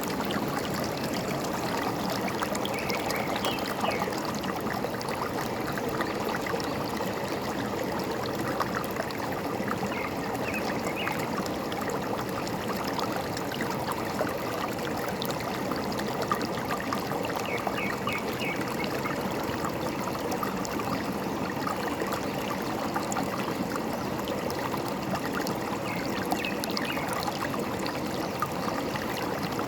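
Forest stream trickling and gurgling steadily, with a few faint short bird chirps now and then.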